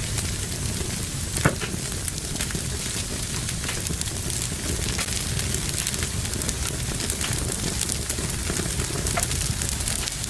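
Fire in a fireplace crackling steadily over a low rumble, with scattered small snaps and one louder pop about a second and a half in.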